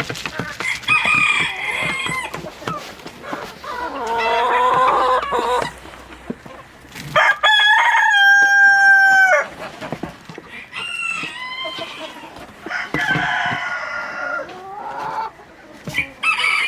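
Roosters crowing one after another, about six calls, among clucking hens; the loudest crow, about seven seconds in, is a long held call of about two seconds.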